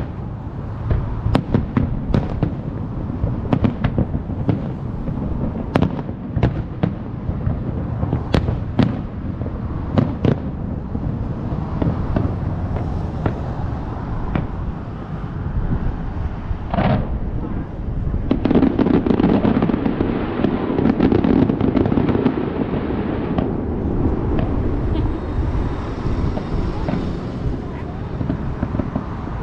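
Fireworks display: many sharp shell bursts over a continuous low rumble for the first ten seconds or so, then a denser, steadier rumble and crackle.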